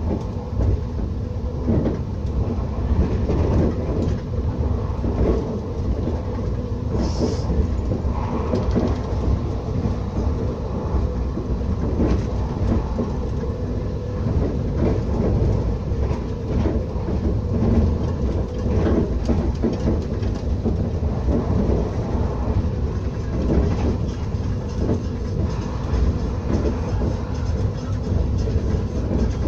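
Steady running rumble of a regional train heard from inside the carriage, wheels on rails with an ongoing clatter. A brief high-pitched sound about seven seconds in.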